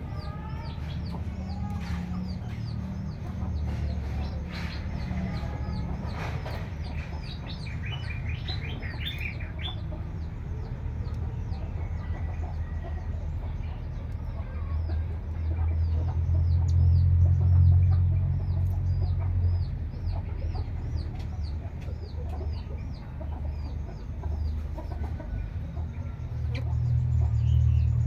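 Small bird calling in a rapid, even string of short high chirps, about four or five a second, over a steady low rumble that swells for a few seconds in the middle and again near the end.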